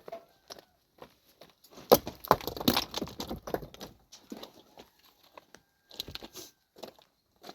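Irregular clatter of knocks and rustling as hard objects are handled, densest and loudest about two to four seconds in, then sparse clicks.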